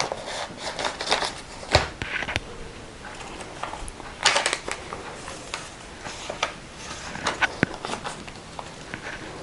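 Paper pages of a handmade junk journal being handled and turned: rustling with scattered light taps and clicks, and a louder swish of a page turning about four seconds in.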